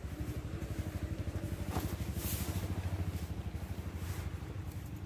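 A motor engine running at a steady low throb, with a brief hiss about two seconds in.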